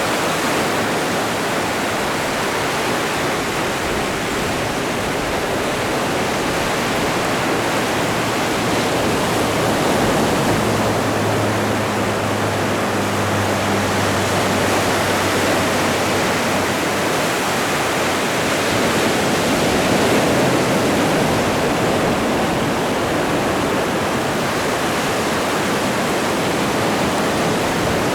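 Atlantic ocean waves washing onto the shore: a steady rushing surf that swells gently in loudness. A faint low hum rises under it for a few seconds near the middle.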